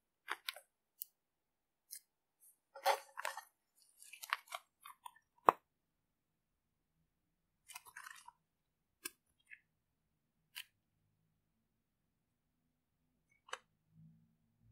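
Slime being squeezed and poked, giving irregular short crackles and pops. They come in a dense cluster a few seconds in, with one sharp loudest pop, then scattered single clicks.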